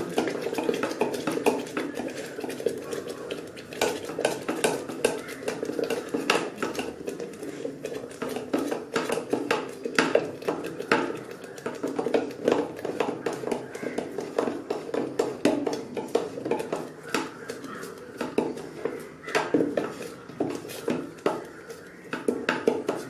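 A spoon stirring thick porridge in an electric kettle, with quick irregular clinks and scrapes of the spoon against the kettle.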